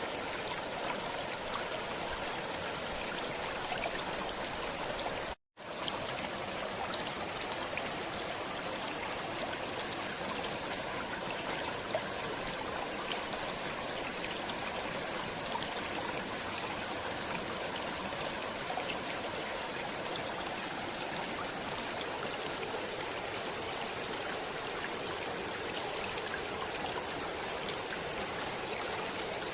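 Stream water flowing steadily, an even rushing babble of running water. It cuts out completely for a split second about five seconds in, then resumes unchanged.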